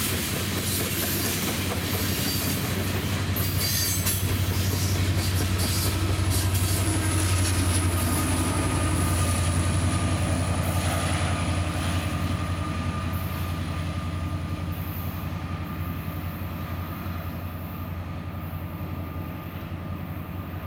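A freight train of tank cars rolling past, with wheels clicking over rail joints and a thin high wheel squeal. Then the rear EMD SD70ACe distributed-power locomotive passes, its diesel engine running with a deep drone that is loudest around the middle and fades as it moves away.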